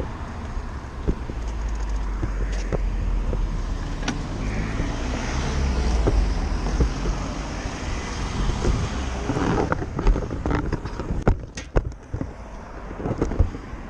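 A motorcycle running with wind noise on a bike-mounted camera. About ten seconds in, a quick series of sharp knocks and scrapes follows, and the engine and wind die down after it.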